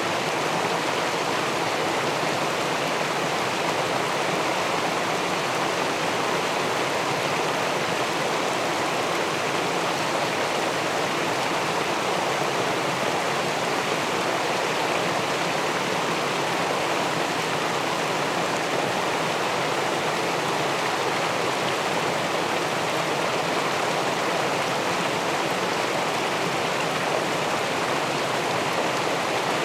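Steady rush of river water spilling over a weir and churning into the pool below it, an even, unbroken flow noise.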